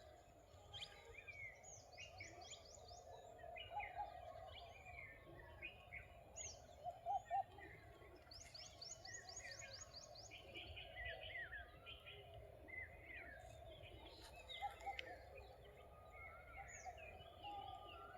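A faint chorus of several wild birds calling: scattered chirps and short whistles, with a fast high trill twice and soft lower calls repeating underneath.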